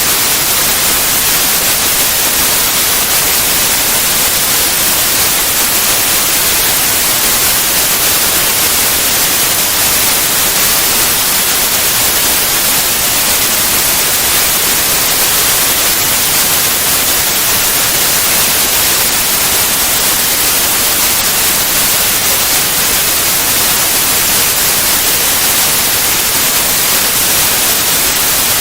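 Steady white noise: an even, unbroken hiss across all pitches, brightest in the highs, with no changes or events.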